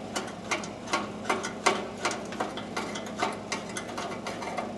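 Hand ratchet wrench clicking in irregular runs, about three clicks a second, as a bolt is backed out.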